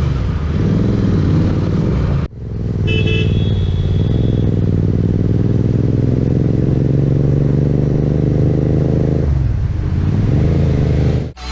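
BMW S1000RR inline-four superbike engine running on the road, its note climbing slowly through a long steady pull. A vehicle horn toots briefly about three seconds in. The sound breaks off abruptly about two seconds in and again near the end.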